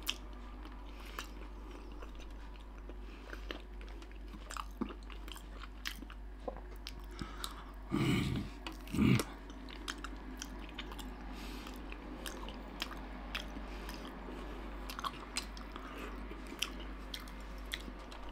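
Close-miked chewing of fatty pork belly slices by a toothless eater, with small wet clicks and smacks from the mouth. Two louder short sounds come about eight and nine seconds in.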